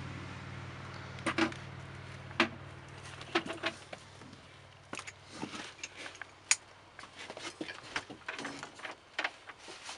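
Scattered light clicks and knocks of handling over a low steady hum, which fades out over the first four seconds.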